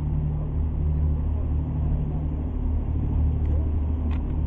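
A harbor tour boat's engine running steadily, a low, even drone.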